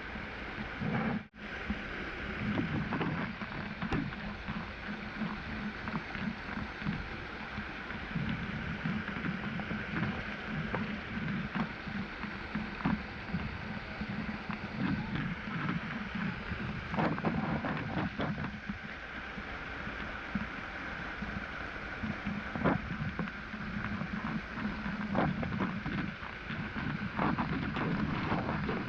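Steady rushing of a waterfall and its stream, with a few short splashes here and there. The sound drops out for an instant about a second in.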